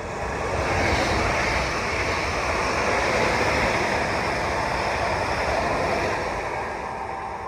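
A train passing at speed: a loud rush of rolling noise that swells over the first second, holds for several seconds and begins to fade near the end.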